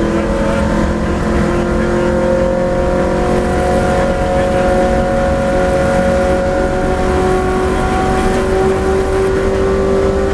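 V8 race car engine running hard under sustained acceleration in one gear, its pitch rising slowly and steadily, with tyre and wind noise underneath.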